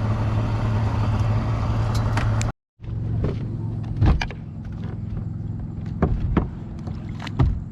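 A boat's motor running with a steady low hum, which cuts off abruptly about two and a half seconds in. A quieter background follows, with a few sharp knocks.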